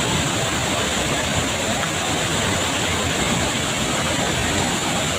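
Waterfall rushing: a steady, even wash of falling-water noise.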